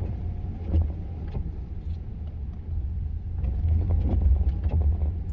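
Low, steady rumble of a truck engine running, with a few faint knocks and clicks over it.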